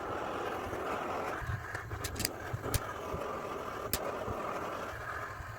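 Steady rushing noise of a heating tool running, warming the washer's bearing housing so the metal expands to take the new bearings. A few short sharp ticks sound about two to four seconds in.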